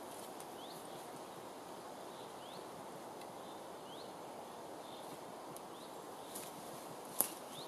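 Woodland ambience: a bird repeats a short rising call note every second or two over a steady background rush. Near the end comes a single sharp knock, the loudest sound, as the wooden poles of the chair frame are handled.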